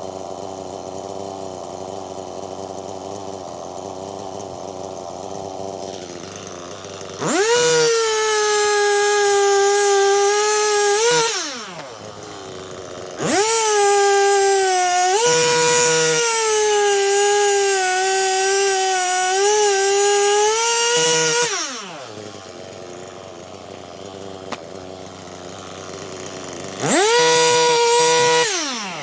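Stihl MS 261 C-M two-stroke chainsaw idling, then opened to full throttle three times, each run held for several seconds before dropping back to idle, as in cutting firewood.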